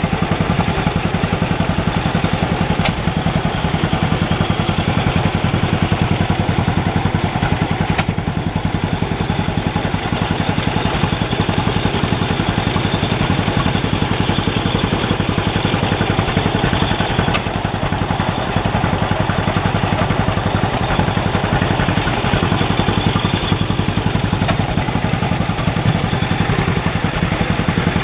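Antique stationary engines running steadily, a John Deere LUC driving a Letz burr mill by flat belt alongside an IHC LB engine driving a grain elevator, with the clatter of the working outfit. A few sharp clicks stand out over the steady running.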